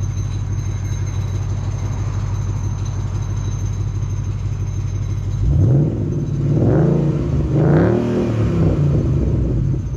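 2012 Ford Mustang GT's 5.0 V8 idling steadily through its exhaust, then revved in three or four quick throttle blips from about five and a half seconds in.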